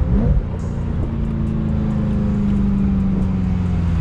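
Ferrari 355's V8 with Tubi exhaust running at a steady cruising speed, its pitch easing slightly lower near the end. Heard from the open-top cabin.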